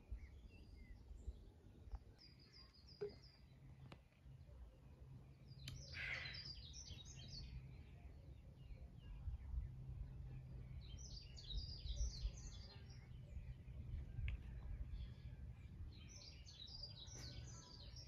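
Wild songbirds singing in forest: short bursts of rapid, high chirping notes come about three seconds in, about six seconds in (the loudest), around eleven to twelve seconds, and near the end, over a faint low rumble.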